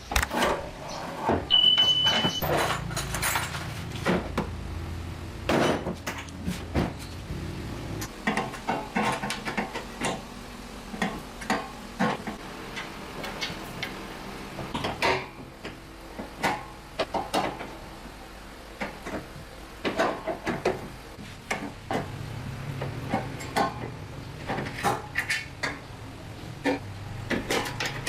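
Irregular metal knocks and clanks of hand work, with a low hum under them in the first few seconds and again near the end.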